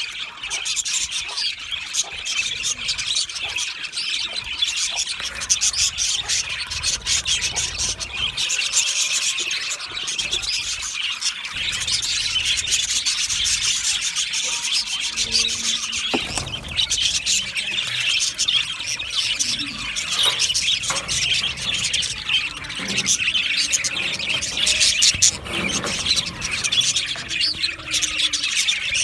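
Budgerigars chattering and chirping, a dense high-pitched warble without pauses.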